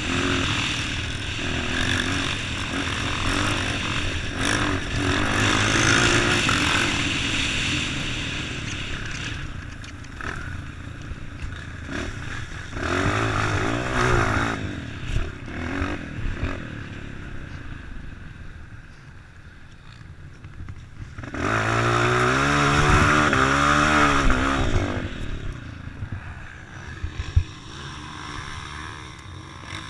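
A motor-vehicle engine running, its pitch rising and falling as it revs, loudest twice: briefly about halfway through, and for a few seconds about three-quarters of the way in.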